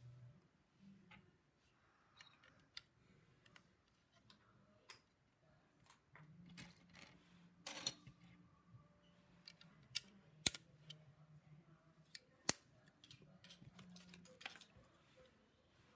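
LEGO plastic bricks and pieces clicking and rattling as they are handled and pressed together, scattered taps with two sharper snaps in the second half.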